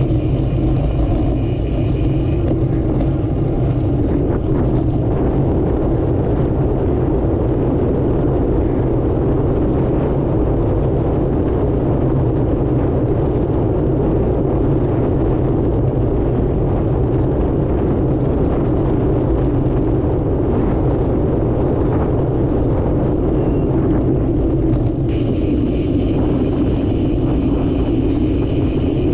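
Steady rumbling wind and road noise on the microphone while riding, unbroken throughout, with a faint high whine at the start and again near the end.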